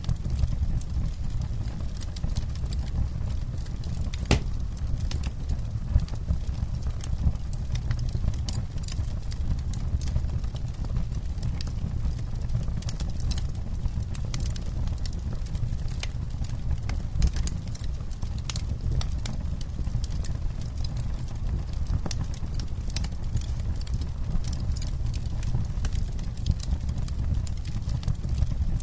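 Wood campfire crackling: frequent sharp pops and snaps over a steady low rumble, with one louder pop about four seconds in.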